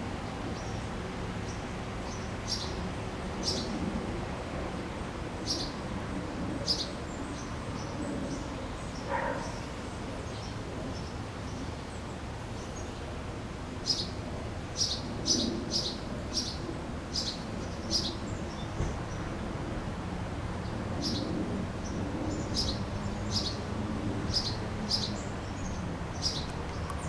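Small birds chirping in short, high notes, scattered and in quick runs, over a steady low hum in the background.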